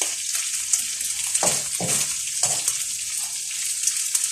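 Food sizzling in hot oil in a frying pan, a steady hiss, with a few short strokes about halfway through that fit stirring in the pan.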